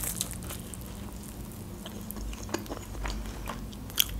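Close-up mouth sounds of biting and chewing a soft fried doughnut (Leningrad pyshka) dusted with powdered sugar: scattered soft wet clicks over a low steady hum, with a sharper click about four seconds in.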